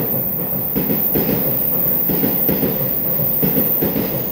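Taiwan Railway EMU3000 electric multiple-unit train running past the platform close by: a steady rumble of wheels on the track with a repeated clatter.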